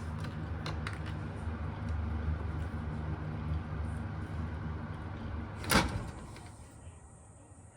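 Panasonic FY-25TH1 ventilation fan running with a steady low hum. Near the end there is a single sharp click, and the fan noise then dies away over a second or so as the fan is switched off and winds down.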